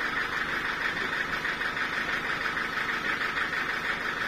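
Portable sawmill running steadily, a constant machine noise with no change in pitch or level.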